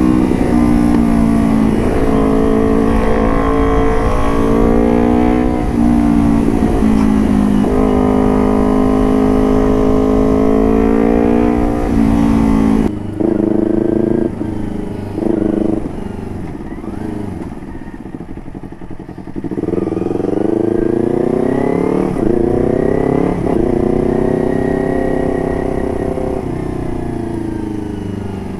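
Motorcycle engine running through a Puresound DX Generation AR1 carbon aftermarket exhaust, held at fairly steady revs for the first half. Then comes a cut, followed by short blips and several rises in pitch, each dropping back.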